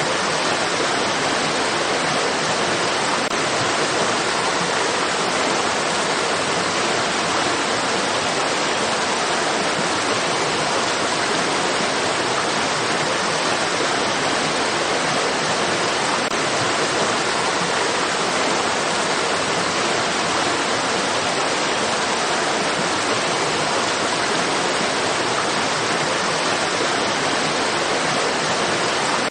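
Flowing stream water rushing in a steady, even wash like white noise, with no changes in level.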